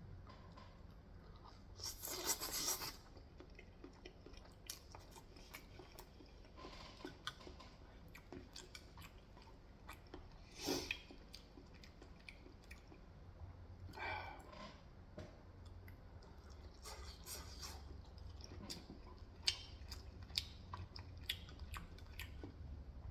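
Close-miked chewing and eating of food, with many small mouth clicks and a few louder noisy bursts about two, eleven and fourteen seconds in.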